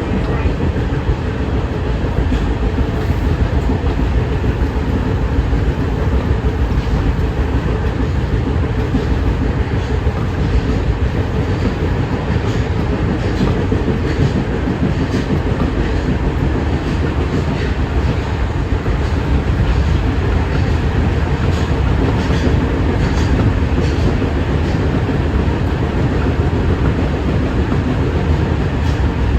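Kita-Osaka Kyuko 9000 series electric train running steadily between stations, a continuous low rumble of wheels on rail with faint scattered clicks from the track.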